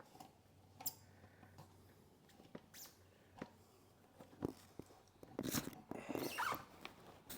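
Scattered light clicks and knocks of handling, with a louder stretch of scraping and rustling about five to seven seconds in.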